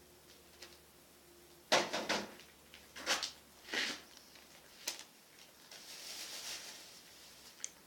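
A handful of sharp knocks and clatters of hard objects being handled, then a soft rustle and a single click near the end.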